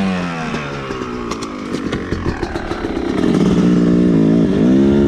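Dirt bike engine running, its pitch falling as it settles at first, then revved up about three seconds in, dipping briefly and revving again near the end.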